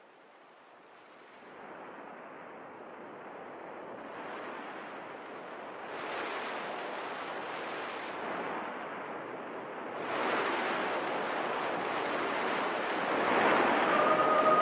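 Ocean surf: waves washing on a beach, a steady rushing noise that grows louder in steps.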